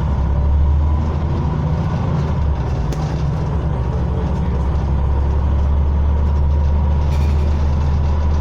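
Scania OmniCity bus's diesel engine running, heard from inside the passenger saloon: a steady low drone with a thin, even whine above it.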